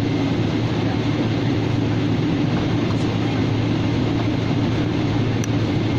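Steady roar inside a jet airliner's cabin during the climb after takeoff: engine and airflow noise with a constant low hum underneath.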